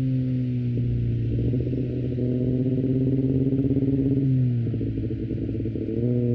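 Kawasaki ZX25R 250cc inline-four running through an Akrapovic exhaust under steady throttle, its pitch creeping slowly upward. About four and a half seconds in the engine note drops and turns uneven, then comes back up to the same pitch about a second and a half later.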